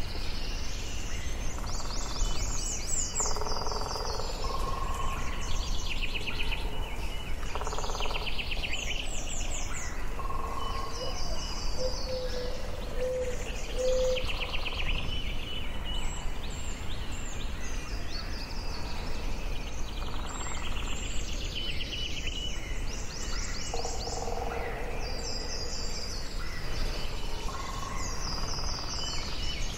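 Forest ambience: several songbirds singing and calling in turn, with fast high trills and repeated chirps, over a steady low background noise. Three short low notes sound a little before the middle.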